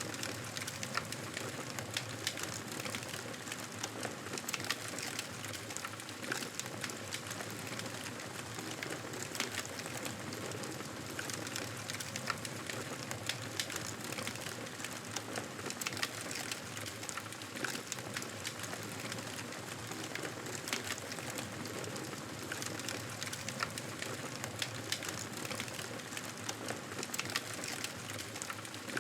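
Wood fire crackling steadily, with many small irregular pops and snaps over a soft hiss.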